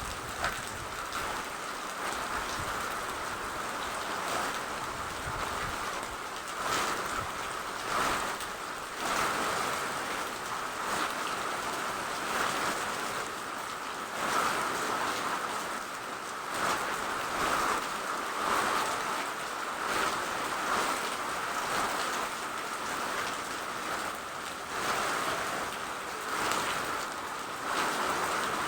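Steady rain falling, a dense hiss with brief louder swells every second or two.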